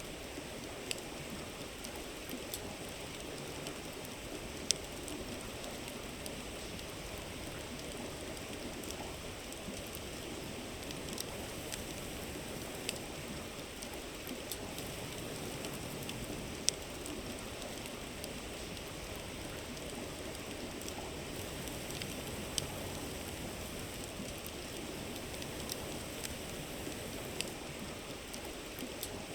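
A river flowing steadily, with a wood bonfire crackling over it: scattered sharp pops every second or few, two of them louder.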